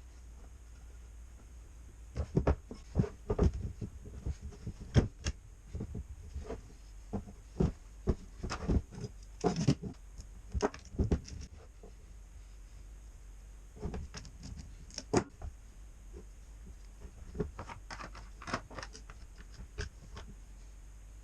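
Irregular clicks, taps and knocks of tools and parts being handled, coming in small clusters with quiet gaps between, over a faint steady hum.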